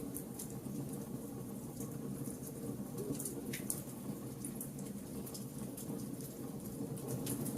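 Wood fire burning with a steady low roar of flames and frequent small crackles and pops from the burning wood.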